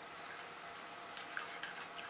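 Faint wet mouth clicks and smacks from chewing raw honeycomb, with a few soft clicks in the second half.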